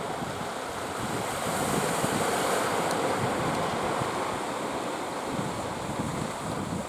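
Surf rushing at a river mouth onto the sea, swelling about a second and a half in and easing after about four seconds, with wind buffeting the microphone.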